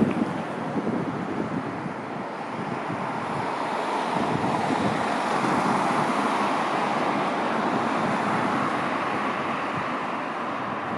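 Jet airliner passing on its landing approach, a steady jet roar that swells to its loudest about halfway through and eases off, with wind buffeting the microphone.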